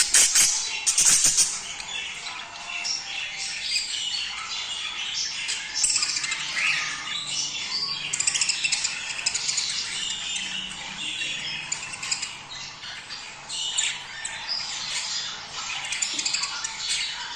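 A flock of budgerigars chattering and warbling continuously, many overlapping squawks and chirps, the calls budgies make when in breeding condition. A few sharp rattling strokes sound in the first second or so.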